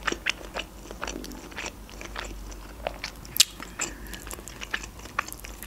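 Close-miked mouth sounds of eating a meat-filled crepe: scattered soft wet clicks and smacks of chewing, with one sharper click about three and a half seconds in.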